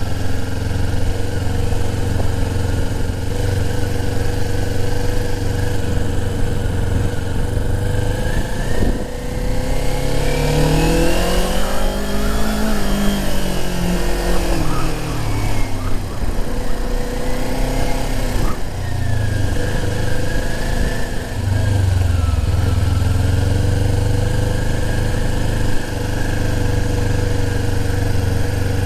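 A motorcycle engine idling steadily, while from about nine seconds in a motorcycle's engine note rises for a few seconds and then falls back as the bike accelerates and eases off.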